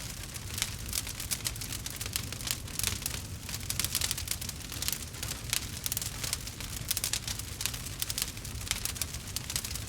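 Campfire burning with dense, irregular crackling and popping over a low rumble.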